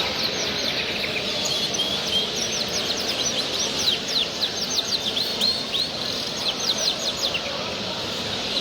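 Small cage birds at a bird show singing and chirping, a rapid run of quick falling high notes over the steady din of a large hall.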